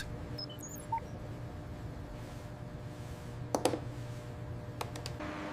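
Steady low electrical hum with a few short electronic beeps in the first second and a couple of sharp clicks later on, typical of laboratory testing equipment.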